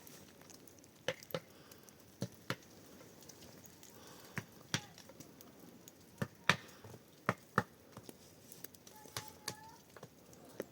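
A series of sharp knocks or strikes, about ten in all, mostly in pairs a fraction of a second apart, recurring every second or two.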